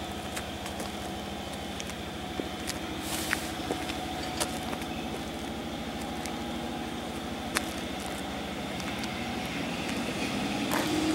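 JR 211 series electric train pulling slowly into the platform: a steady running hum with scattered light clicks, growing louder near the end as the train draws close.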